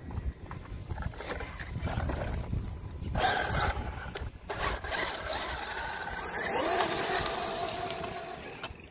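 Electric RC truck's brushless motor whining, its pitch rising and falling with the throttle from about three seconds in, with a few short knocks from the truck. Wind rumbles on the microphone.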